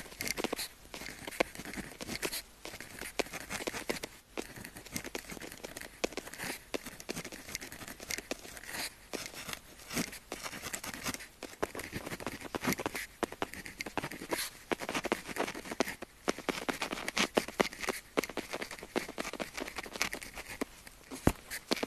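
Pen tip writing on paper: a steady run of short scratchy strokes and light taps.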